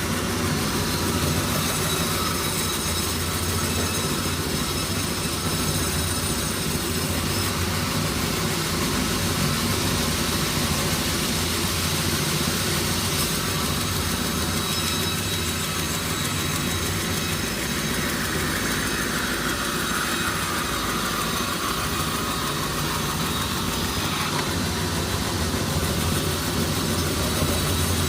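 Sawmill machinery running steadily with a low hum and a dense mechanical noise. A higher whine slides down in pitch for several seconds about two-thirds of the way through.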